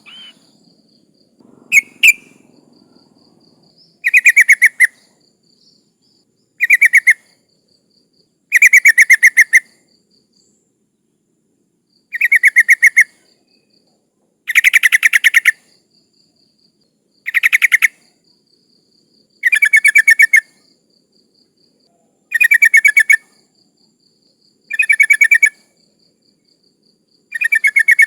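Yellow-vented bulbul (trucukan) calling: loud, bubbly chattering phrases about a second long, each a rapid run of notes, repeated about every two to three seconds. The uploader presents it as a female calling for a male.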